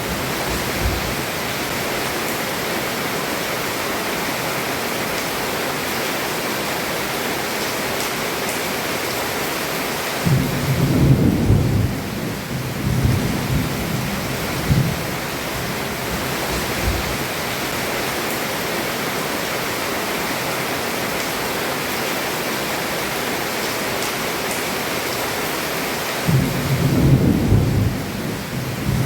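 Heavy rain falling steadily on a roof, with a low roll of thunder about a third of the way in and another near the end.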